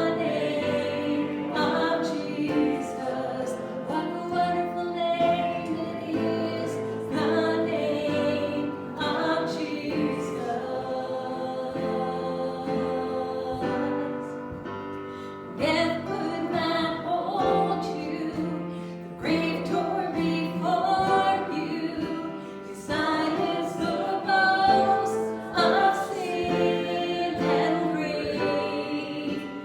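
Worship music: a group of voices singing together in held, sustained phrases.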